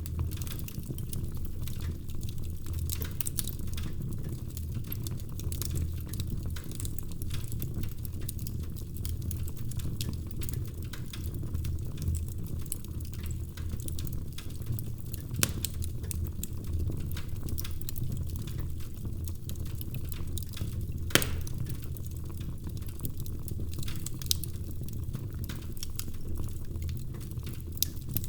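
Wood fire crackling in a fireplace: a steady low rumble of flames with many small crackles, and two louder pops, one about halfway through and one about three quarters through.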